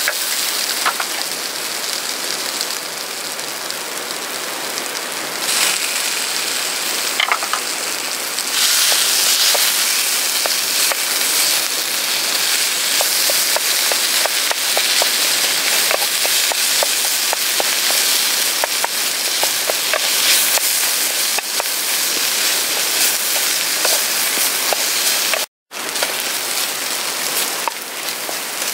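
Sliced potatoes, onion and meat sizzling as they fry in a stainless pan over a camp stove, with small ticks from a wooden spatula stirring. The sizzle cuts out for a moment near the end.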